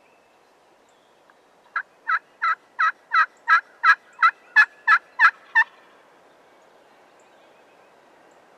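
A run of about a dozen turkey yelps, roughly three a second and getting louder toward the end.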